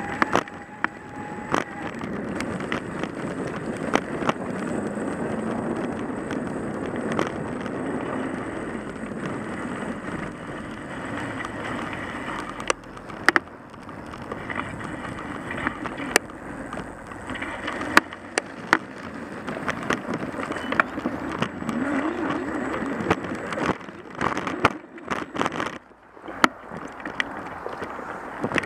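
Vehicle rolling along snow-covered streets: steady tyre and road noise, with scattered clicks and knocks.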